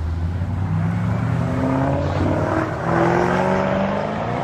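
Car engine accelerating hard through its exhaust, the note rising steadily in pitch for about three seconds.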